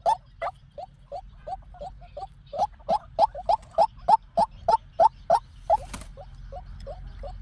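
White-breasted waterhen calling: a fast run of short rising notes, about three a second. The notes are softer for the first two seconds or so, then louder.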